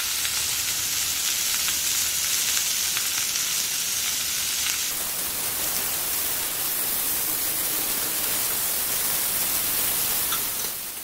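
Marinated chicken pieces and butter sizzling on a hot dosa griddle: a steady frying hiss.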